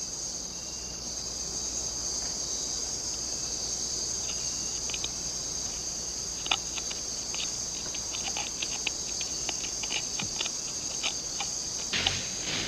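Rainforest insect chorus: a steady high-pitched buzz, with scattered faint clicks and ticks from about four seconds in.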